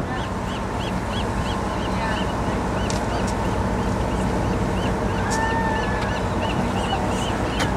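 Boat's engine running steadily under wind and water noise, with a quick even series of small high chirps, about three a second, and one short whistle-like call about five seconds in.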